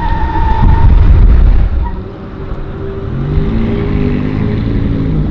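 Twin-turbo V8 of a Hennessey HPE700 Corvette C7 Stingray, loud with a heavy low rumble for about two seconds, then dropping to a quieter, steadier engine note.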